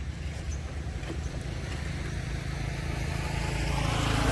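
Engine of a motor vehicle running, a low steady hum that grows louder toward the end as it comes closer.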